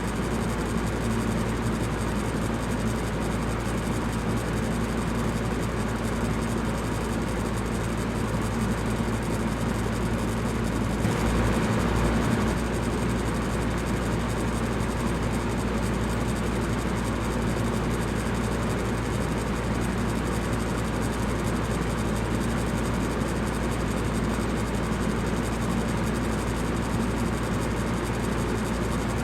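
Electric fan running steadily: an even whooshing of moving air over a low motor hum, swelling slightly for a moment about eleven seconds in.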